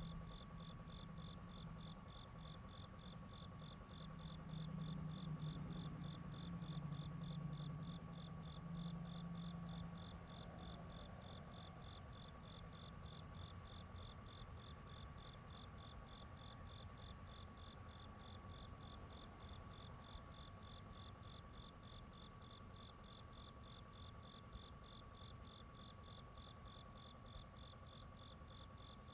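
Crickets chirping in a steady, even pulse, about two chirps a second, over a thin steady tone and a low rumble that swells about five seconds in and then eases off.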